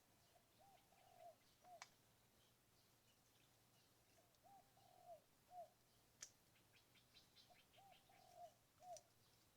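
A dove cooing faintly: the same short phrase of several rising-and-falling notes, repeated three times about every three and a half seconds. Faint small-bird chirps come between the phrases, and there are two sharp clicks.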